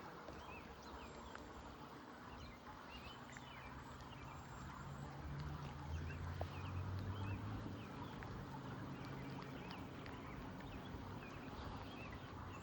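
Birds chirping outdoors: many short calls scattered throughout, over a low steady hum that grows louder around the middle.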